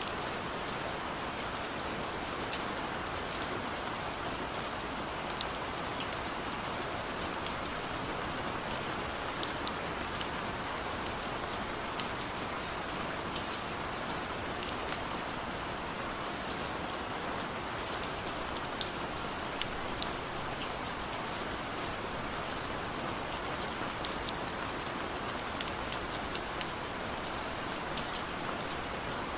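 Steady rain falling, a dense even hiss with many separate drops ticking sharply on a surface; no thunder is heard.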